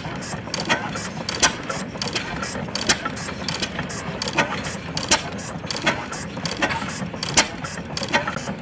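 1909 Deutz-Otto antique stationary gas engine running on battery ignition, its works giving a rapid clatter of sharp mechanical clicks several times a second, every so often one much louder than the rest.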